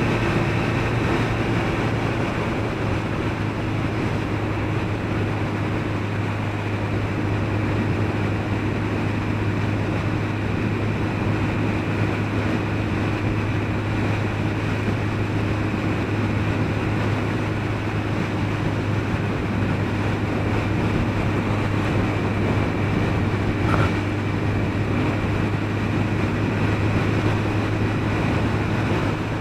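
Suzuki RF900R's inline-four engine running at a steady cruise, its pitch holding even, under a constant wash of wind and road noise.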